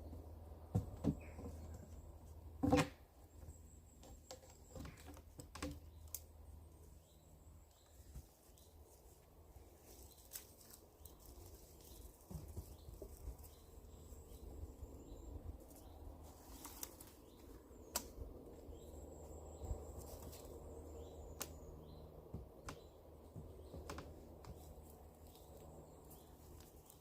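Scattered cracks and knocks of sticks and branches being handled and snapped in woodland, the loudest knock about three seconds in. Faint high bird calls come and go in the background.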